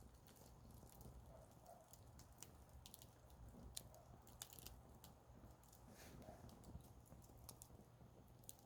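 Wood fire crackling faintly: irregular small pops and snaps of burning wood over a low, steady rumble.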